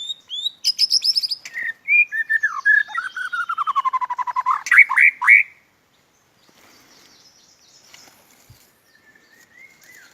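White-rumped shama singing: a rapid, varied phrase of whistles and fast trills that slides down through a long run of quick notes and ends in a few sharp upward-swept notes. It stops about five and a half seconds in.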